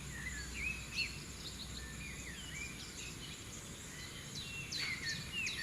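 Birds chirping outdoors in the morning: many short, quick calls from several birds, growing busier near the end, over a faint steady background rumble.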